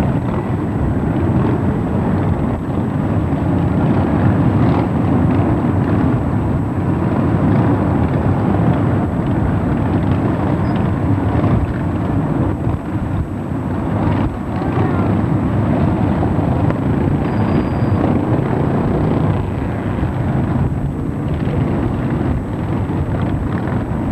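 Many motorcycle engines running together in a continuous low rumble as a long column of motorcycles rides past.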